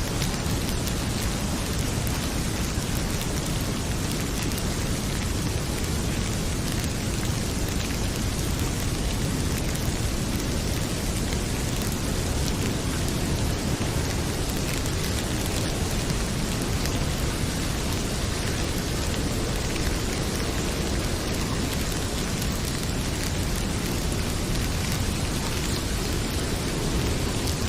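Heavy rain pouring steadily with a deep low rumble, and the odd faint crackle of a wood fire.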